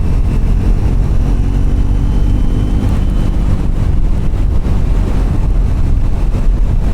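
Triumph Scrambler's parallel-twin engine running steadily under way, under a heavy low rumble of wind on the microphone.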